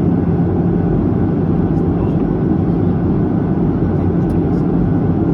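Steady drone inside an airliner cabin: an even rumble with a constant low hum.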